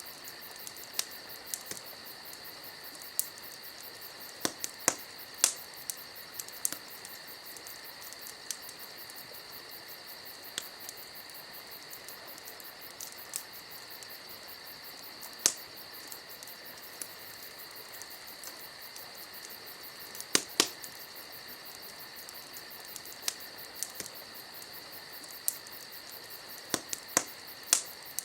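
Campfire crackling with sharp, irregular pops, a few louder ones standing out, over a steady high chirring of crickets.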